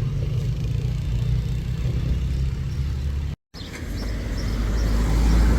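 Low, steady rumble of a car on the road. It cuts out for a moment about three and a half seconds in, then returns and builds louder.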